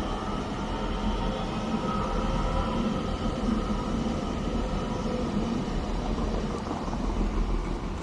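Train running at a station platform: a steady drone with a low hum and a higher whine over it.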